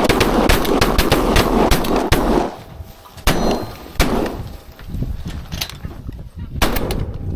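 Several shotguns firing at ducks: a quick string of shots in the first two seconds or so, then a few more spaced shots.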